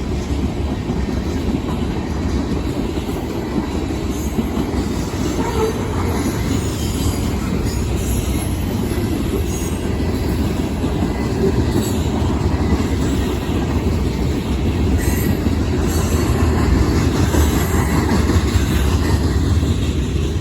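Freight cars of a Union Pacific manifest train rolling past on the rails with a steady rumble and clatter, and faint high wheel squeals now and then.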